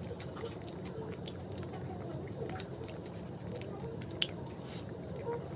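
A person chewing close to the microphone, with scattered small crunches from a mouthful of puffed rice (muri) with egg curry, and one sharper click about four seconds in.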